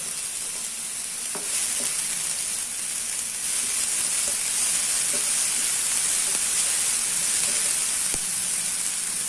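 Chopped onions and ginger-garlic paste sizzling in hot oil in a non-stick frying pan while being stirred with a wooden spatula; the sizzle grows louder after about a second and a half, with a few light taps of the spatula on the pan.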